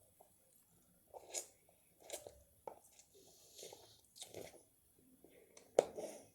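A person chewing mouthfuls of Japanese instant noodles close to the microphone, in a string of short, faint chewing sounds about one every half-second to second, with a louder one near the end.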